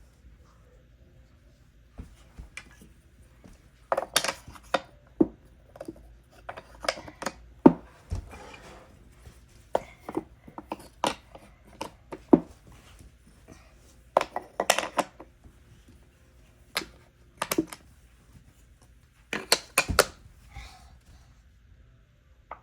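Wooden puzzle pieces being handled, clacking and knocking against a wooden puzzle board in irregular clusters of sharp taps.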